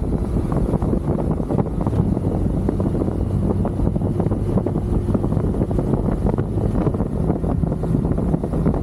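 Motorcycle engine running steadily at cruising speed, with heavy wind buffeting on the microphone.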